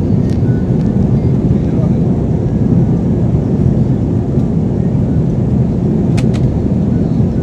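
Airliner cabin noise during takeoff: a loud, steady low rumble of engines and rushing air, with two short clicks about six seconds in.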